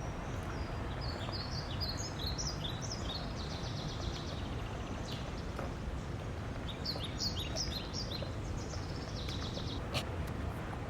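A songbird sings two quick phrases of short, rapid notes, each about two to three seconds long, over a steady rush of flowing river water.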